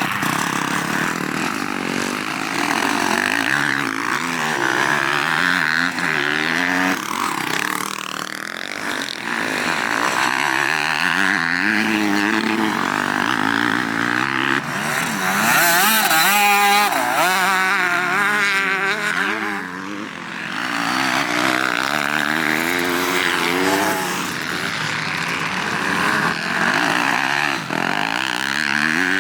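Motocross bike engine being ridden hard, its pitch rising and falling again and again as the throttle opens and shuts through the corners and gear changes, with wind rush over it.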